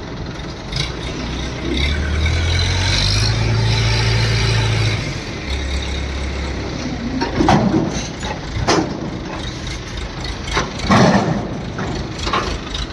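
A heavy vehicle's diesel engine revs up about two seconds in, holds for about three seconds, eases off, then revs briefly again. Several short, loud, sharp sounds follow in the second half.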